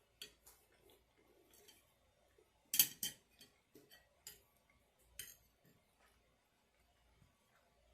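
A metal spoon clinking and scraping against a takeout food container, in a string of light ticks. The loudest is a quick double clink a little under three seconds in.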